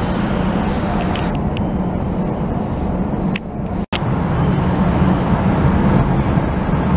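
Steady low rumble of a commuter train in an underground station. The sound cuts out suddenly and very briefly about four seconds in.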